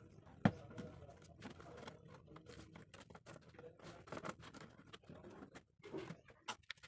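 Cardboard pieces being handled and worked by hand: a run of light taps, clicks and rustles, with one sharp click about half a second in.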